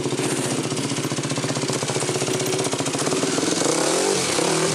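Dirt bike engine running with a rapid pulsing beat, revved up a couple of times near the end.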